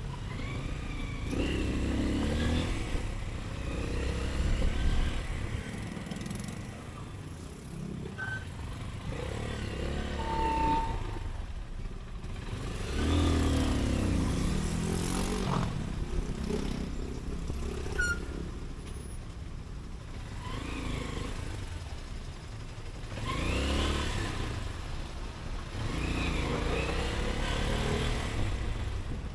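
Motorcycle engine pulling away and easing off again and again, its pitch rising with each acceleration, over a steady low rumble of road noise.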